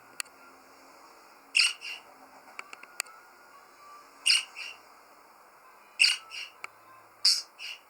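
Pet budgerigar giving short, scratchy chirps: about four calls a second or two apart, some doubled, with a few sharp clicks in between.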